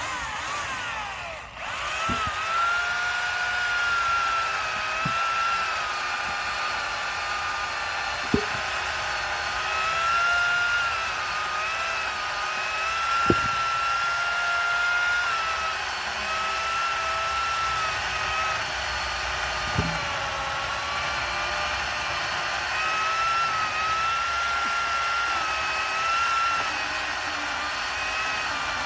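Electric saw cutting firewood: the motor whines steadily, its pitch sagging now and then as it bites into the wood. A few sharp knocks sound through it.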